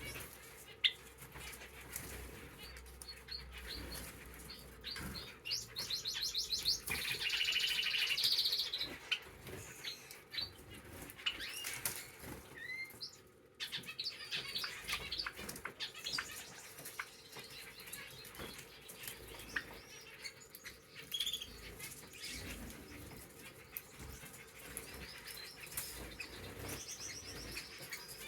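Small cage birds (canaries and finches) foraging on a solid cage floor: a steady scatter of small taps and rustles from pecking and hopping, with occasional wing flutters and short chirps. A louder run of quickly repeated high, trilled notes comes about five to nine seconds in.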